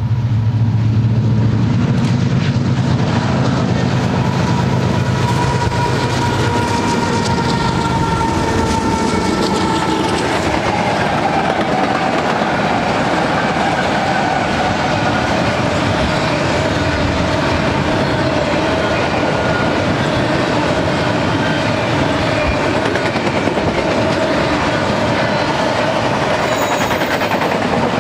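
Union Pacific SD70ACe diesel locomotives passing close with a deep engine drone that fades about eight seconds in, then freight cars rolling by: a steady rumble and clatter of wheels on rail with a thin whining tone over it.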